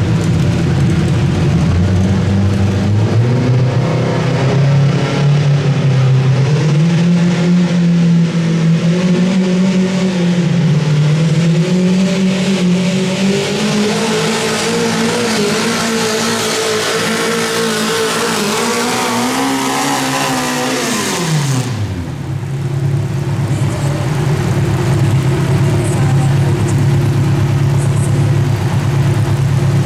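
Modified garden pulling tractor's engine running at high revs under load, its pitch climbing slowly through the pull, then dropping away sharply about 21 seconds in. Afterwards an engine runs steadily at lower revs.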